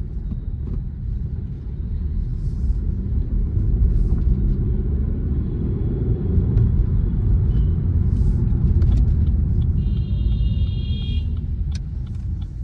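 A car being driven, heard from inside the cabin: a steady low rumble of engine and road noise that swells in the middle. A brief high tone sounds about ten seconds in.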